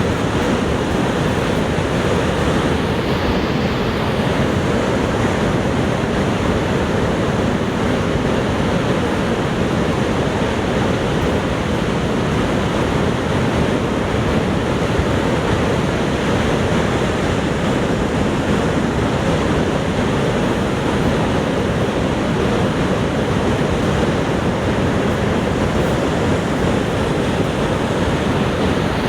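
Niagara Falls: a constant, unbroken rush of falling water, deep and even throughout.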